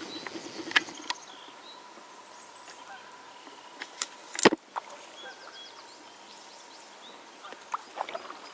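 Kayak paddling with a few hard knocks of a paddle against a kayak, the loudest about halfway through, and short bird chirps in between.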